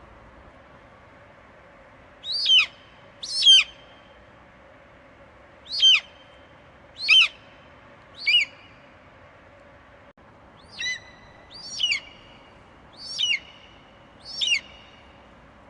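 Eagle screeching: nine short, piercing calls, each sliding sharply down in pitch, starting about two seconds in and repeating every one to two and a half seconds, over a faint steady hum.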